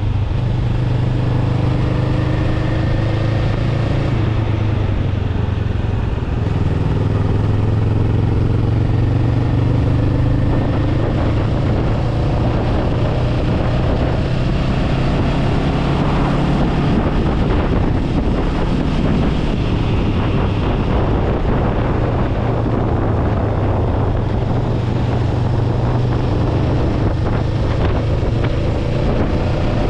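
Honda Rebel 500's parallel-twin engine running under way, its note rising and falling a few times with the throttle, with wind noise on the microphone.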